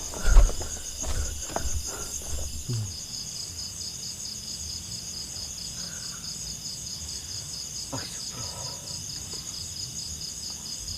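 A chorus of night insects chirping steadily, a high, rapidly pulsing trill. A few low thumps and rustles come in the first couple of seconds, and a single sharp click about eight seconds in.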